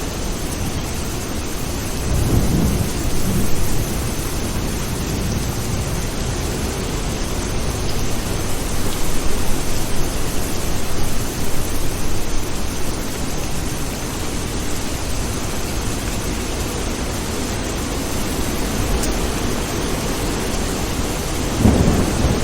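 Steady rain falling, with rolling thunder rumbling low beneath it, swelling about two seconds in, again in the middle and once more near the end.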